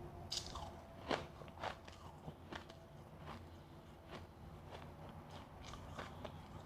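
A person biting and chewing refrozen powdery freezer ice close to the microphone, with a run of irregular crisp crunches, the loudest about a second in.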